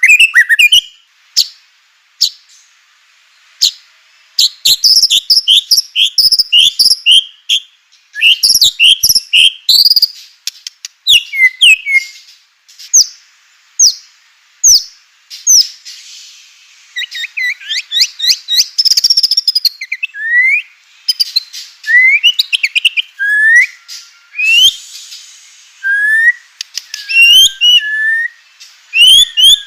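White-rumped shama (murai batu) singing: quick runs of sharp, rising whistled notes mixed with dry clicking chatter, repeated over and over in bursts.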